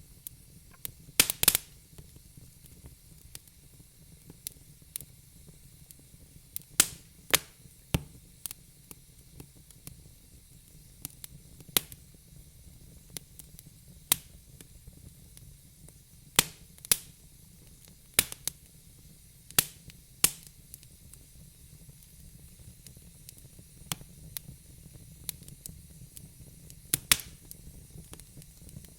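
Wood fire in a fireplace crackling, with sharp pops at irregular intervals over a soft steady hiss. The loudest pops come about a second in, around seven seconds in, in a cluster between sixteen and twenty seconds, and near the end.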